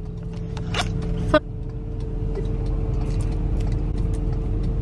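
Car driving, heard from inside the cabin: a low, steady engine and road rumble that slowly grows louder, with a steady hum and a few light clicks.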